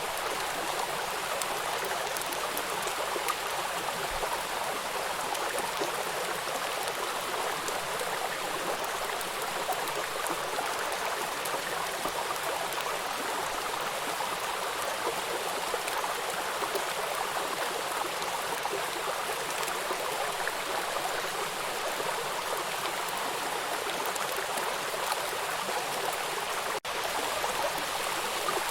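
River waterfall: water rushing over rocks in a steady, even rush, broken by a momentary dropout near the end.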